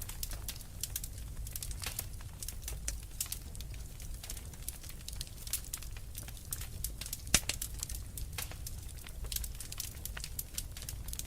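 Wood fire crackling in a fireplace: irregular snaps and pops over a low steady rumble, with one sharp, louder pop a little past the middle.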